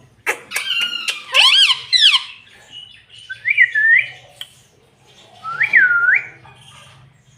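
Pet ringneck parrot calling: a quick burst of clicks and harsh swooping squawks, then two separate dipping whistles a couple of seconds apart.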